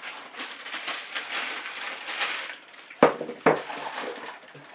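Packaging rustling and scraping as the planer is unpacked, then two sharp knocks, half a second apart, about three seconds in.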